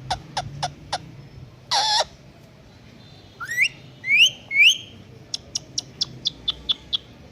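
Indian ringneck parakeet calling: a short harsh squawk, then three quick rising whistled chirps. Runs of sharp clicks come before and after the chirps, the later run fast, about six clicks a second.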